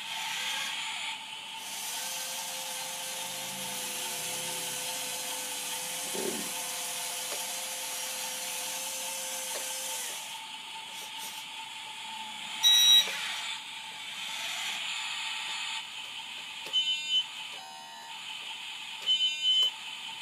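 RC scale forklift with a sound module, beeping like a reversing alarm a few times in the second half. Earlier there is a steady whine over a hiss from the forklift working.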